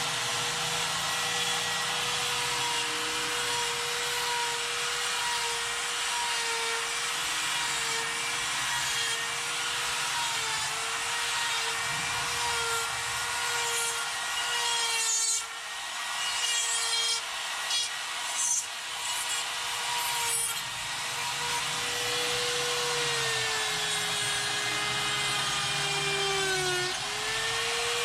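Electric die grinder with a carbide burr cutting wood: a high, steady motor whine with a rasping cut. The whine breaks off briefly mid-way, then slows as the burr is pressed harder into the wood near the end and picks back up.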